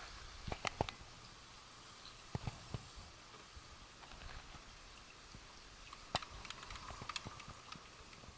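Faint steady hiss of rain with a scattered handful of light clicks and taps.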